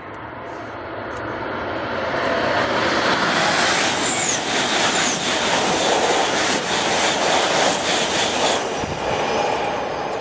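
Shinkansen train going past: its noise builds over about two seconds, stays loud for about six with a run of short clicks from the wheels, then eases off.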